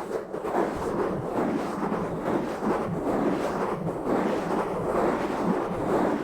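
Fingers scratching and rubbing fast and roughly directly on an uncovered microphone, a dense, continuous rasping with a deep rumble.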